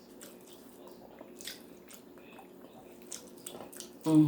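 Close-up wet chewing and mouth smacks from a person eating a spicy fried chicken sandwich, with soft scattered clicks. Near the end there is a short loud vocal sound.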